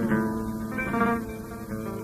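Instrumental interlude of Arabic folk music: a plucked string instrument playing a run of single notes that each ring and fade, between the sung lines of a mawwal.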